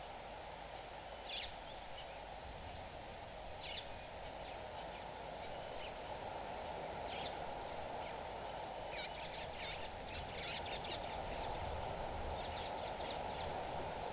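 Birds at a waterhole giving short, high chirps: a few single calls, then quick runs of chirps in the middle and near the end, over a steady background hiss.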